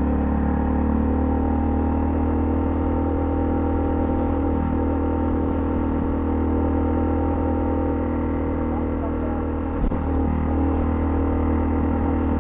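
Honda CL250 motorcycle engine running at a steady speed while riding, an even drone with no gear change, and a single short knock about ten seconds in.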